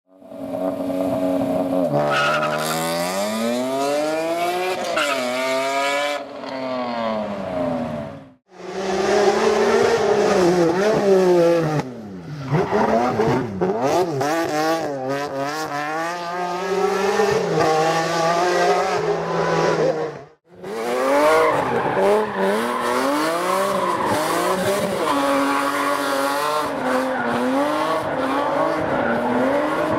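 BMW E46 engine revving hard during drifts, its note climbing and dropping again and again, with tyres squealing. Three separate clips, joined by sudden cuts about eight and twenty seconds in.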